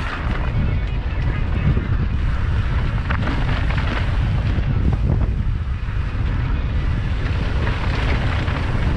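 Wind buffeting the microphone of a mountain bike in motion on a dirt trail, a steady loud rumble with tyre and bike rattle noise and a few sharp knocks.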